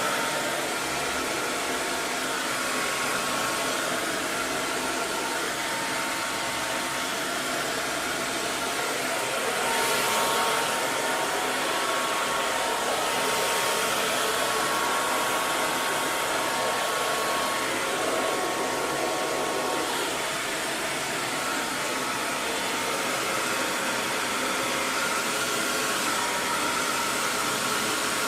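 Electric hair dryer running steadily: a continuous airy rushing with a faint steady motor whine, swelling slightly about ten seconds in.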